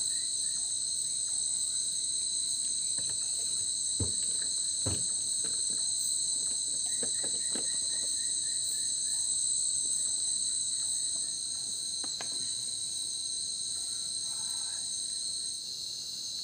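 Night chorus of tropical forest insects, a steady high-pitched trilling in several overlapping voices, with the highest voice dropping out near the end. A few soft knocks sound now and then.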